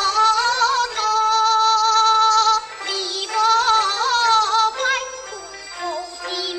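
Teochew opera singing: a high female voice sings a melismatic phrase with long held, wavering notes over instrumental accompaniment, pausing briefly about halfway through before the next phrase.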